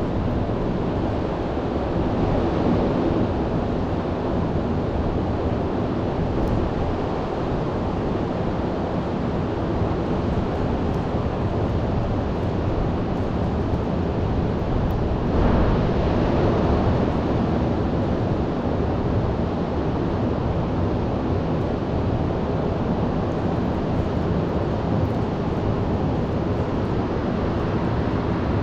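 Heavy ocean surf roaring steadily in a storm, with wind rumbling on the microphone; a louder surge of breaking surf comes about halfway through.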